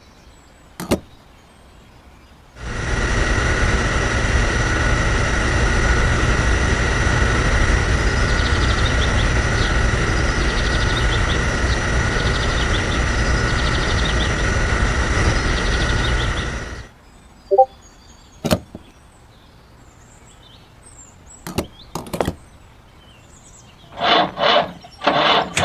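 A small electric motor switches on abruptly, runs steadily with a whine of several fixed tones over a heavy hum for about fourteen seconds, then cuts off suddenly. A few separate clicks and knocks follow.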